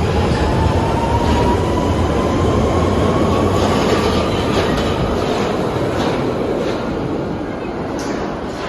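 London Underground Central line tube train (1992 stock) accelerating out of the station, its traction motor whine rising slowly in pitch over heavy rumble and repeated wheel clacks. The sound fades gradually as the train pulls away.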